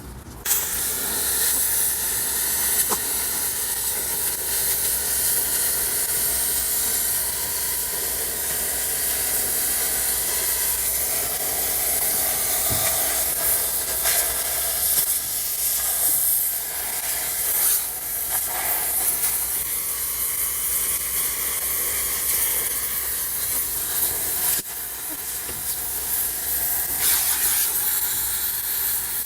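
Gas cutting torch (maçarico) hissing steadily as it cuts steel. The hiss starts abruptly about half a second in and holds at a fairly even level.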